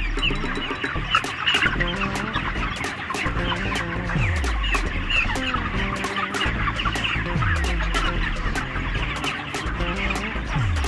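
A shed full of month-old broiler chickens peeping and chirping without pause, a dense overlapping chatter. Background music plays under it, with a low tone that slides down in pitch about every three seconds.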